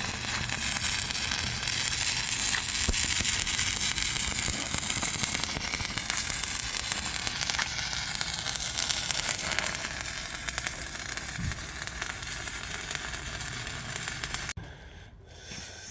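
Arc welding: a steady crackling sizzle of the arc as a plate is welded onto the backhoe's steel, stopping suddenly near the end.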